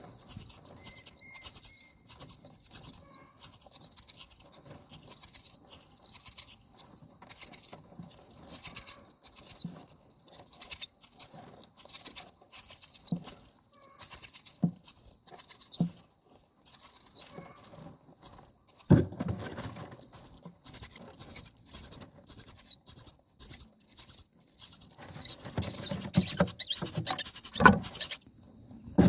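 Common myna nestlings calling in the nest: a rapid, steady string of short high-pitched begging chirps that breaks off briefly near the end. Low knocks and rustling come in around the middle and again in the last few seconds.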